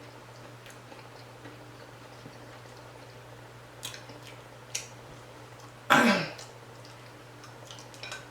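A person eating fried fish: a few soft mouth and chewing clicks, and one short throat clear about six seconds in, the loudest sound, falling in pitch.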